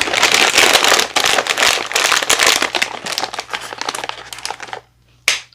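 A snack bag crinkling and rustling loudly as it is handled for about five seconds, followed by a single sharp click near the end.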